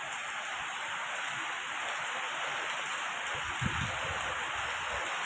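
Steady heavy rain during a storm, an even hiss, with a brief low thump about three and a half seconds in.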